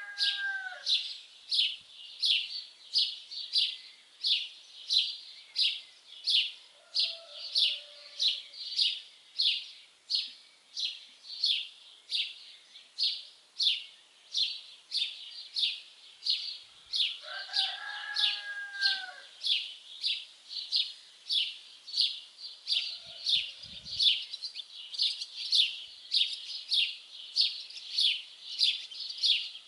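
Songbird repeating one short, high chirp in an even rhythm, about one and a half a second, throughout. A lower, arching call from another bird sounds at the start and again about 18 seconds in.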